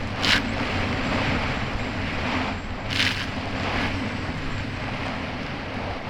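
Kawasaki Ultra 300X jet ski's supercharged four-cylinder engine running steadily under way, over a constant rush of wind and water. Two short splashes of spray come through as the hull hits chop, one right at the start and one about three seconds in.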